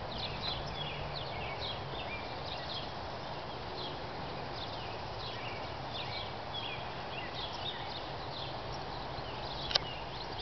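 Small birds chirping, many short high chirps a second, over a steady low background hum; one sharp click near the end.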